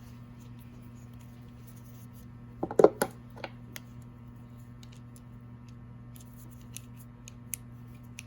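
A short clatter of small parts and hand tools being handled, about three seconds in, followed by a few light scattered clicks, over a steady low hum.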